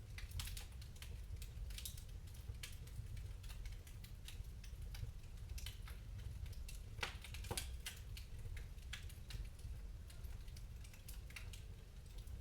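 Wood fire in a fireplace crackling, with irregular sharp pops and snaps, a few louder ones about halfway through, over a low steady rumble.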